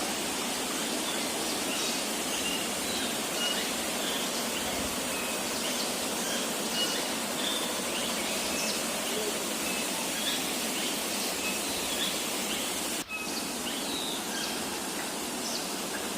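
Steady rushing of a waterfall in strong flow, with birds chirping on and off over it. The sound briefly cuts out about thirteen seconds in.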